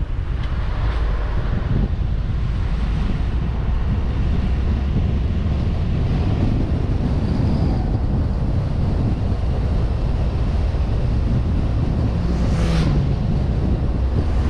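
Car driving: steady engine and road rumble with wind noise on the microphone, and a short whoosh near the end.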